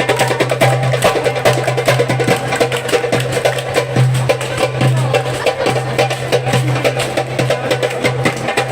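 Fast hand-drum solo on a darbuka (goblet drum): rapid, crisp strokes and rolls packed closely together, over a sustained low backing note.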